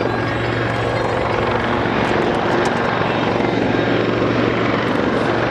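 Helicopter in flight: a steady low drone from the rotor and engine over a broad, even rushing noise.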